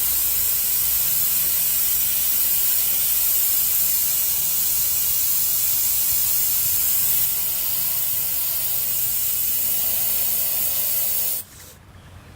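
Dual-action airbrush spraying thinned acrylic paint: a steady hiss of air through the nozzle that eases slightly about seven seconds in and cuts off suddenly near the end as the trigger is released.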